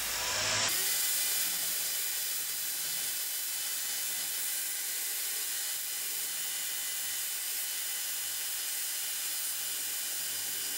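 Power tool running steadily with an even whirring hiss, with a brief louder burst in the first half-second.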